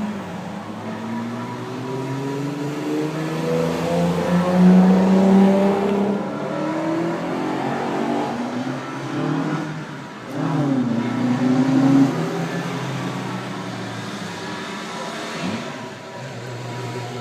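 Classic car engines running and accelerating, rising in pitch over the first few seconds and again at about ten seconds.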